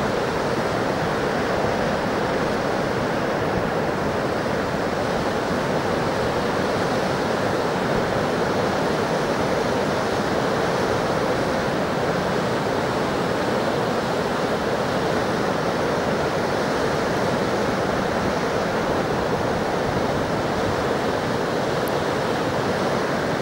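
Indus River water rushing, a steady, unbroken noise.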